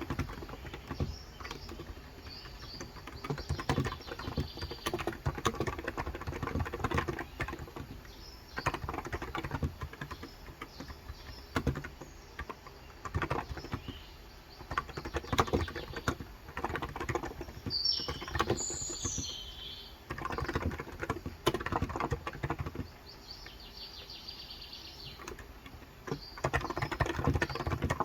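Typing in bursts on a COX Endeavor electro-capacitive 35 g tenkeyless keyboard, fast runs of soft key presses broken by short pauses. A bird chirps briefly about two-thirds of the way through.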